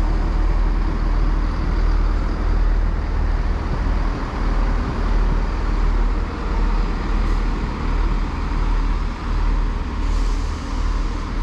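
Two coupled Class 158 diesel multiple units running at the platform, a steady diesel engine and train rumble.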